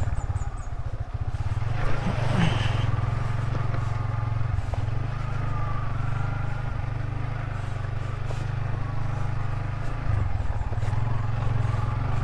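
Yamaha Vixion single-cylinder motorcycle engine running steadily under way, with a brief noisy rush about two seconds in and a short dip in the engine note about ten seconds in.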